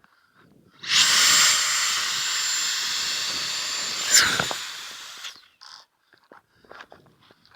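Electric ducted fans of a model English Electric Lightning jet running at full throttle: a rushing blast with a steady high whine. About three seconds later a sharp hit comes as the plane crashes, and the whine drops quickly and fades out.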